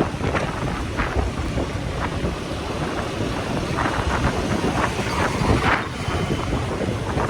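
Wind buffeting the microphone of a riding motorcycle, with the motorcycle's engine and road noise underneath, surging in irregular gusts.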